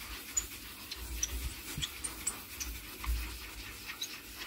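Damp, ash-coated sponge scrubbed with firm pressure over a fireplace's glass door, a rough rubbing sound with scattered short high squeaks and low bumps, scouring off the soot.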